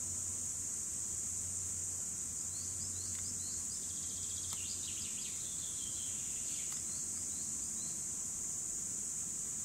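Cicadas singing: a steady, unbroken high buzz, with a run of short high chirps over it for several seconds in the middle.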